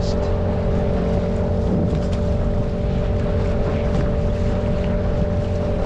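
Mercury 8 hp outboard motor running steadily at speed, pushing a small inflatable boat fast over shallow water, with a constant rush of water and wind.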